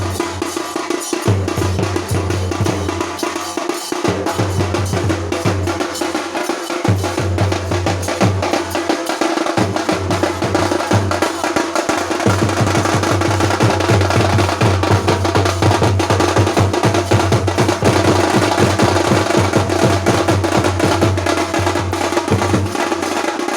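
Village baja band drums playing: several drums beaten in a fast, dense rhythm, with a deep drum sounding in spells of a second or two between short breaks.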